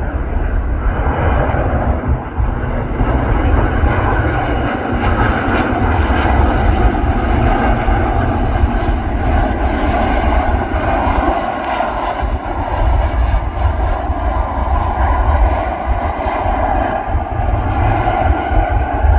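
Jet engines of a Saudia Boeing 787 Dreamliner airliner landing: a steady, loud jet rumble that grows slightly louder as it goes on.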